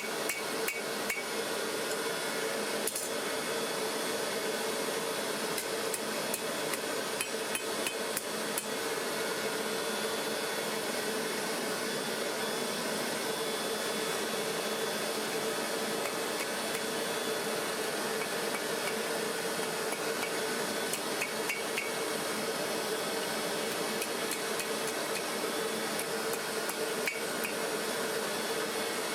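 Steel being hammered on an anvil, blow after blow in a dense run, over a steady hum.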